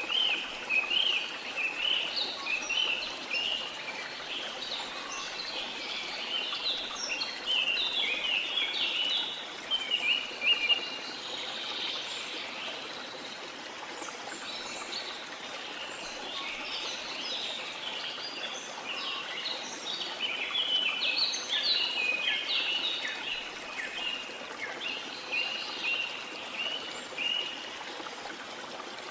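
Birds chirping in quick runs of short high notes over the steady rush of a waterfall. The chirping comes in two long spells with a lull in the middle.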